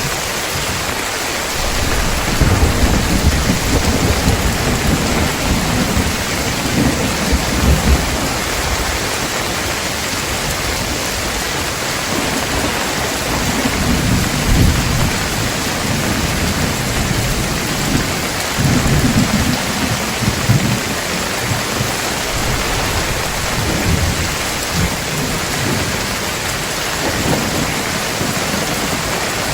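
Heavy rain falling steadily, with rolls of low thunder rumbling up and fading away several times.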